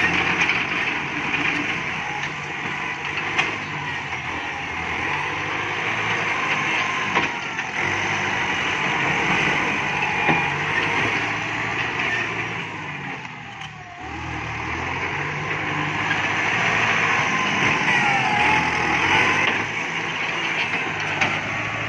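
Kubota MU5702 tractor's diesel engine running steadily under work, with a brief dip in level about two-thirds of the way through.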